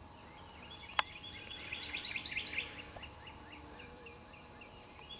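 Small birds chirping, a rapid run of short, high, falling chirps that is busiest in the middle. A single sharp click about a second in.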